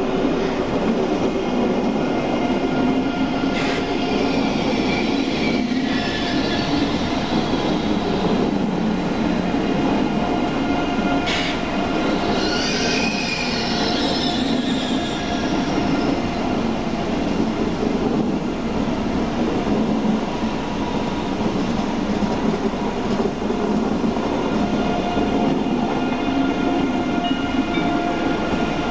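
ICE high-speed train running slowly into the station past the platform: a steady rumble of wheels and running gear. Wheel squeal rises briefly about four seconds in and again from about twelve to fifteen seconds, with a sharp click about eleven seconds in.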